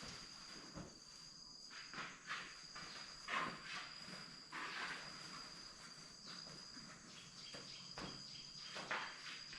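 Insects chirring steadily at one high pitch, with irregular soft steps and rustles every second or so.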